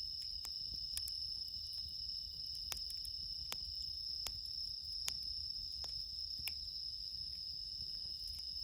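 Crickets singing steadily in a high-pitched chorus, with the sharp irregular pops and crackles of a wood campfire burning.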